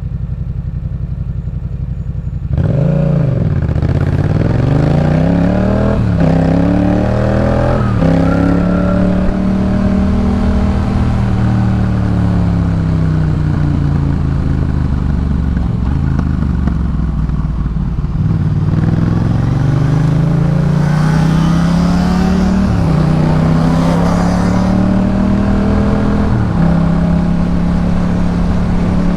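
2018 Yamaha MT-07's parallel-twin engine through a Jeskap K4 full aftermarket exhaust, idling and then pulling away hard about two and a half seconds in. It revs up through the gears with quick upshifts, eases off, and then accelerates again with two more upshifts near the end.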